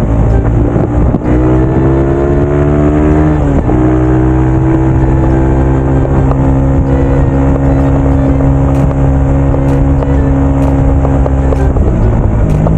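Motorcycle engine under way. It speeds up with its pitch rising for a couple of seconds, drops sharply about three and a half seconds in, then holds a steady pitch while cruising.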